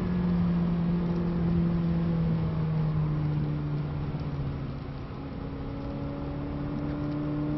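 McLaren 600LT's twin-turbo V8 heard from inside the cabin, its note falling as the car slows from about 160 to 110 km/h. It goes quieter about five seconds in, then picks up again near the end as the car starts to accelerate, over steady road and tyre noise.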